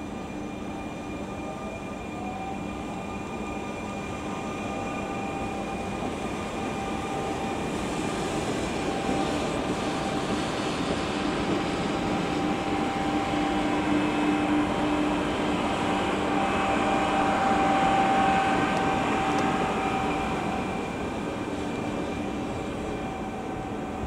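A train moving through a railway station. The noise builds slowly to its loudest about 18 seconds in and then eases off, with steady humming tones held throughout.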